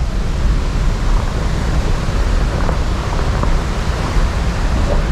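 A car driving along a rough, unpaved off-road track: steady low engine and road rumble with a rushing noise over it.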